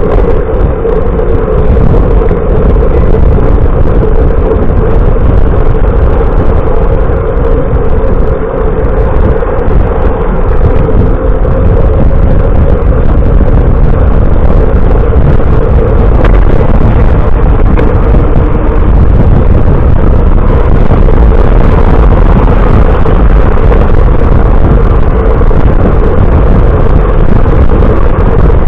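Loud, steady rumbling road noise with a constant hum underneath, typical of a bike-mounted camera's microphone while riding.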